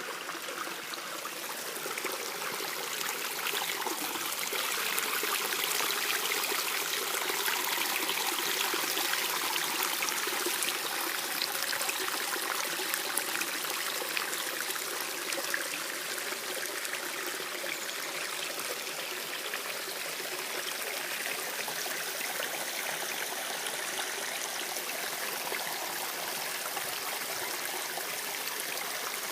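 Mountain stream water running and trickling steadily, growing a little louder over the first few seconds and then holding even.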